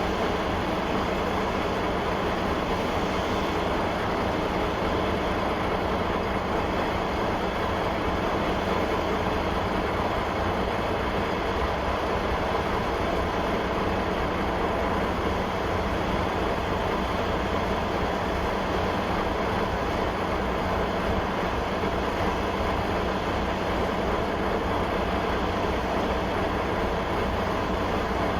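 1972 O&K V12 diesel engine running steadily, still warming up after a cold start.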